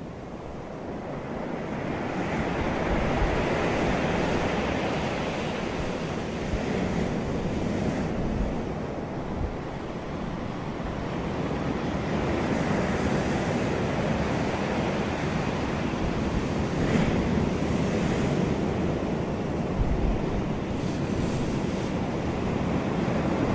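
Ocean surf breaking on a beach, a steady wash of waves that swells louder and eases off several times. Low rumbling gusts of wind on the microphone come and go underneath.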